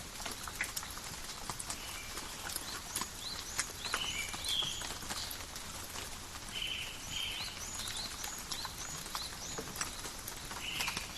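Steady rain in a forest, with many fine drops pattering on leaves. Birds call over it in short, high, repeated chirps through the middle and near the end.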